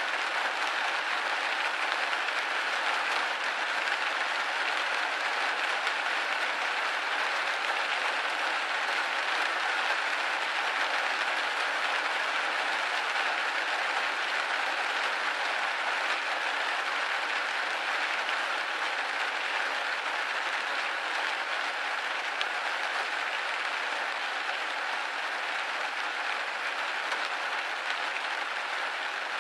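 Rain pattering steadily on a window pane, a dense even patter with little low end.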